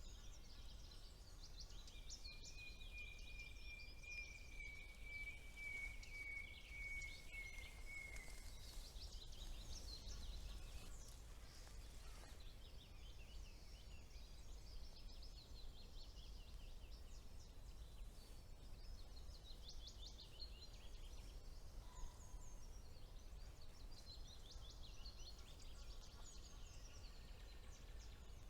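Faint chorus of several songbirds singing in a spring woodland, with many quick, overlapping high phrases. Early on a thin high whistle is held for about six seconds, falling slightly in pitch. A steady low rumble runs beneath.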